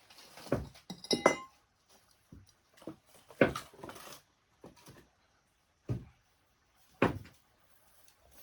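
Irregular knocks and clatter of kitchenware being handled, with a short ringing metallic clink about a second in.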